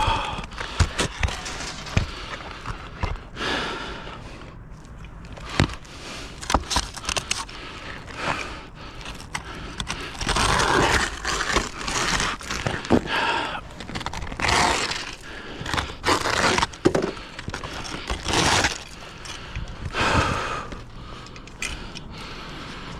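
Irregular scraping, with scattered sharp knocks, from hand work on a roof being prepped, such as pulling off old drip edge.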